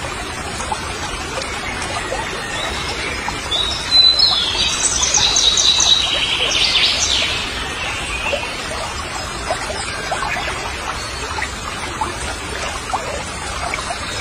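Outdoor pond-side ambience with a steady hiss, where a songbird sings a loud high trilling phrase from about four to seven and a half seconds in; faint splashing from a hooked fish thrashing at the water's surface.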